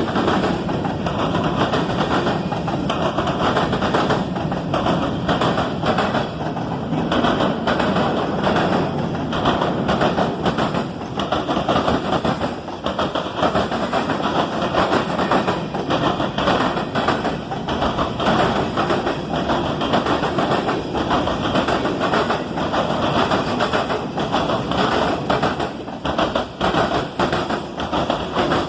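Norfolk Southern mixed freight train rolling past: a steady rumble of car wheels on the rails, with a constant run of clicks as the wheels cross rail joints.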